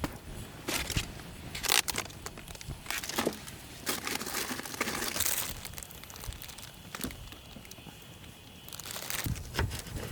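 Crinkling and rustling as something is handled, with scattered light clicks and knocks.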